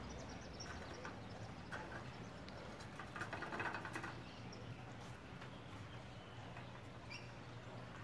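Small birds chirping faintly and sporadically, with a short flurry of chirps about three seconds in, over a low steady hum.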